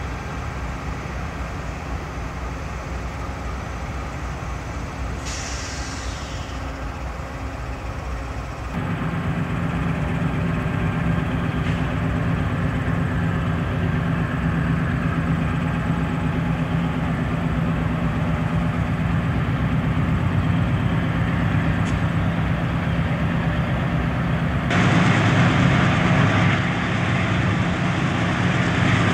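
Diesel locomotive running with a steady hum that gets louder about nine seconds in and again near the end, with a brief hiss about five seconds in.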